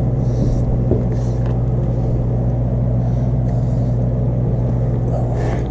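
A steady low mechanical hum that stays at one pitch, with a few faint short hisses over it.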